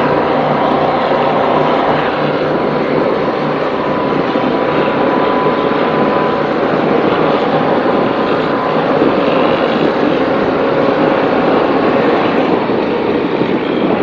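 Onboard a racing powerboat: its engines running steadily with a constant drone and a few held tones, mixed with the rush of wind and water.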